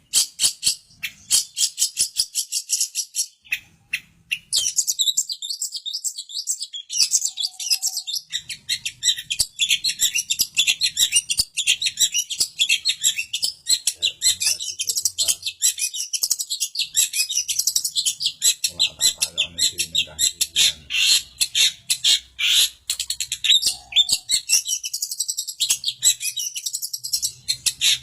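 Cendet (shrike) singing a rapid, unbroken chatter of short high notes, with a brief lull about four seconds in.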